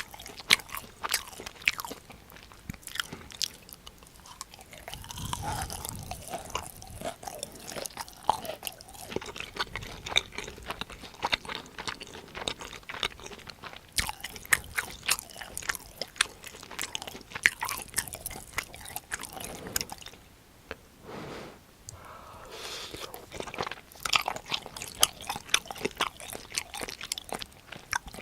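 Close-miked eating: crisp crunching bites and chewing, with many sharp mouth clicks, pausing briefly about two-thirds of the way in.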